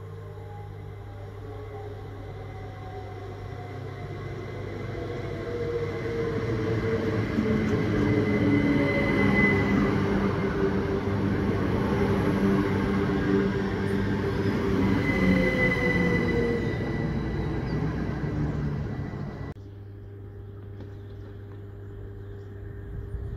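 A GWR electric multiple-unit train running in alongside the platform, growing louder as it nears, with a whine that falls slowly in pitch and a thin high wheel squeal twice. The train sound cuts off abruptly about three-quarters of the way through, leaving a steady low hum.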